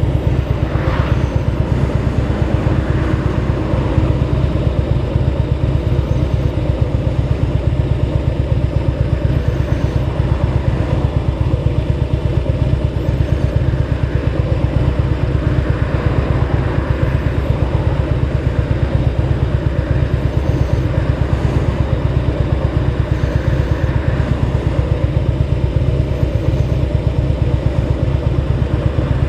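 Motorcycle engine idling steadily, with a low, even, rapidly pulsing rumble.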